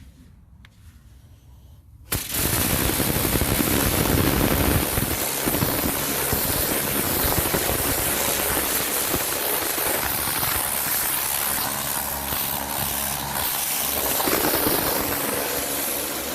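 Kärcher pressure washer jet blasting fouling off a boat's bottom: a loud, crackling hiss that starts suddenly about two seconds in, holds steady, and cuts off near the end.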